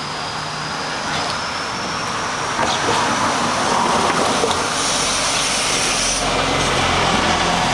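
A motor vehicle's engine running close by over steady outdoor noise, its low hum coming in about five seconds in and holding on.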